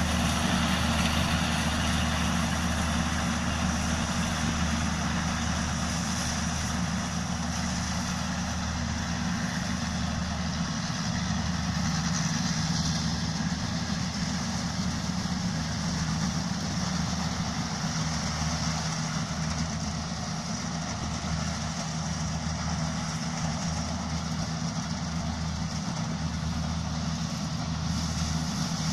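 Gangyi GY4LZ-1.0 small combine harvester running steadily while harvesting rice: a constant engine hum with a dense clatter of the cutting and threshing machinery. It eases slightly about two-thirds of the way through and picks up again near the end.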